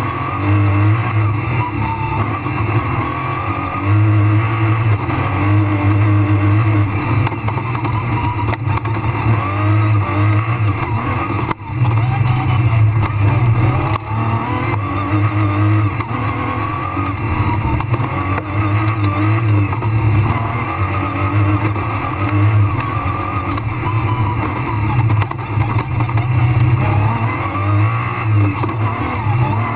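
Rally car engine at full stage pace, heard from inside the cabin. Its note keeps rising and falling, with one brief sharp drop in level about twelve seconds in.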